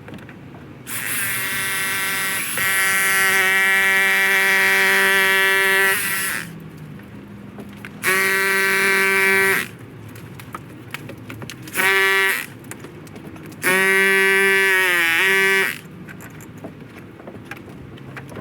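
Handheld electric power tool motor run in four bursts: a long one of about five seconds, a shorter one, a brief blip, then one that dips in pitch near its end as it bogs under load.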